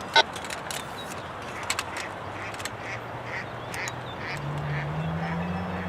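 A bird giving a quick run of short, repeated calls, about three a second, after a sharp click at the start. A low engine hum comes in partway through and steps up in pitch near the end.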